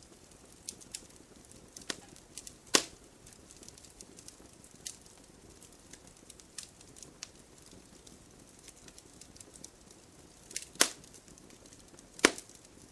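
Wood fire crackling: irregular sharp pops and snaps over a faint low hiss of burning, with a few louder pops about three seconds in and twice near the end.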